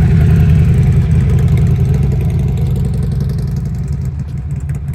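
Harley-Davidson motorcycle's V-twin engine running at low speed close to the microphone, a loud, low rumble that eases off gradually.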